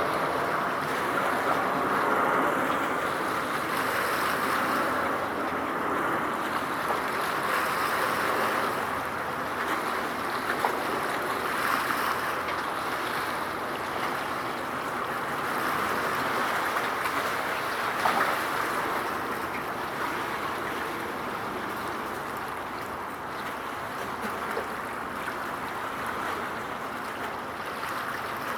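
Water washing at the shoreline: a steady rushing noise that swells and eases every few seconds.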